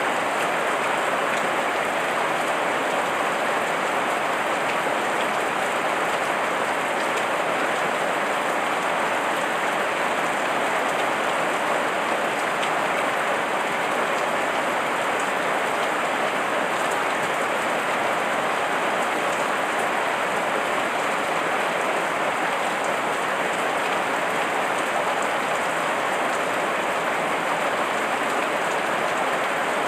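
Steady heavy rain falling and pattering on surfaces, an even, unchanging hiss of drops.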